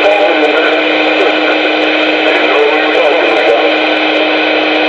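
CB radio audio from a receiver: a strong, noisy transmission holding a steady low tone, with warbling, garbled sounds and no clear words.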